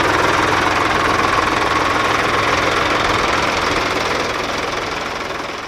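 Sonalika DI 50 tractor's diesel engine running with a steady clatter, fading out over the last second or so.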